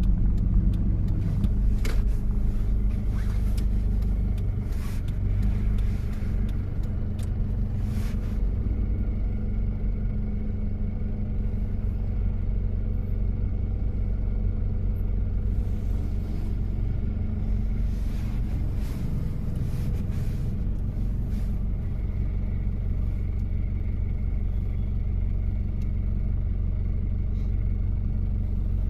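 1993 Toyota Prado's diesel engine running steadily as the vehicle drives, a low steady hum, with a few light knocks or rattles in the first several seconds.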